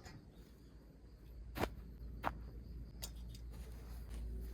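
Faint handling noises: a few light clicks and knocks over a low rumble.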